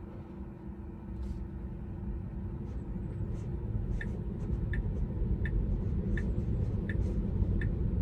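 Inside a Tesla's cabin, tyre and road noise on a rain-soaked road grows steadily louder as the car picks up speed. From about halfway in, a light tick repeats about every 0.7 seconds, like the car's turn signal.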